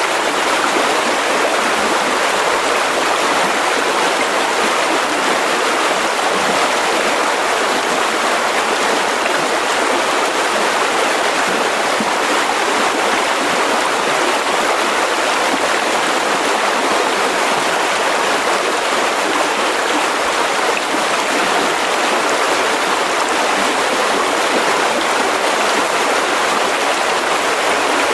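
Mountain river rushing over rocks: a steady, unbroken rush of water.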